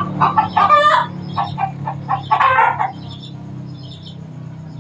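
Zebra doves (perkutut) singing: rapid, staccato series of cooing notes in several phrases over the first three seconds, then quieter. A steady low hum runs underneath.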